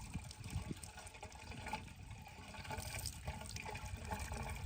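Water gushing and splashing steadily from a diesel engine water pump's outlet pipe, over a low, uneven rumble.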